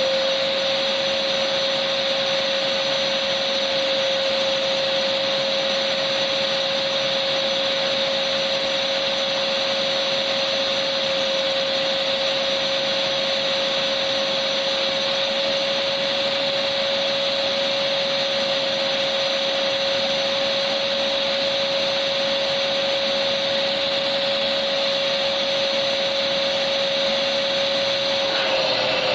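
Electric vacuum cleaner running steadily: a constant motor whine over an even hiss.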